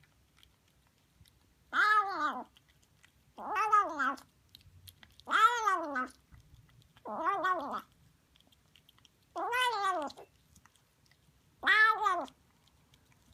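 Kitten meowing six times, each call rising and then falling in pitch, roughly two seconds apart.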